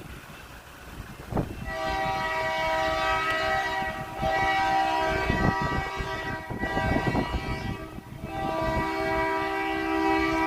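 Locomotive air horn sounding a chord of several tones in four blasts, long, long, short, long, the pattern of the grade-crossing warning, starting about two seconds in over the rumble of the train.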